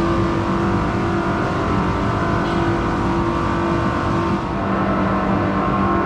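Cable-car ropeway machinery running with a steady mechanical drone of several held tones. The lowest tone drops out for a moment a little past the middle.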